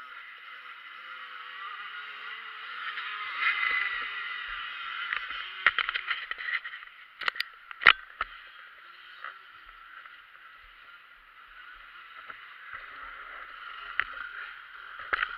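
Motocross bike engines running at a distance, a steady drone with faint shifting pitch. A few sharp knocks come through the middle, the loudest about eight seconds in, and another near the end.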